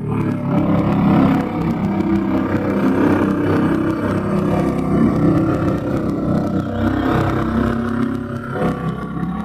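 Small motors of bumper boats running steadily, a continuous drone that wavers a little in pitch.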